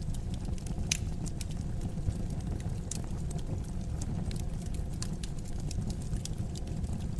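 Wood fire crackling in a fireplace: a steady low rumble of the flames with irregular sharp pops and snaps, the loudest about a second in and again near three seconds.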